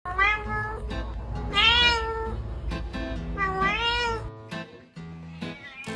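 A domestic cat meowing three times, long calls that rise and fall in pitch, over background music.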